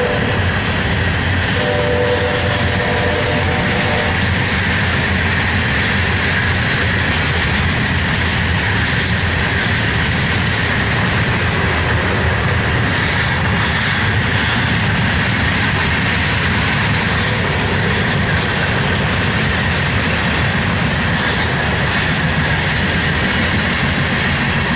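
Loaded coal train cars rolling past, a steady loud rumble of wheels on rail with clickety-clack. A short horn-like chord sounds for about two seconds near the start.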